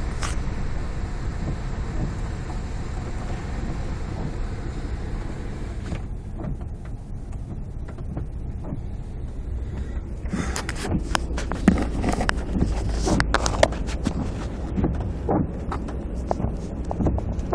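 Low, steady vehicle rumble that eases about six seconds in, followed from about ten seconds on by irregular clicks and crackles.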